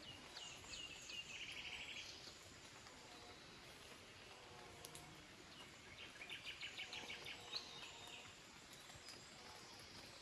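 A small songbird singing faintly in two short phrases, a few chirps running into a fast trill, then a quick run of repeated notes, over a steady faint background hiss.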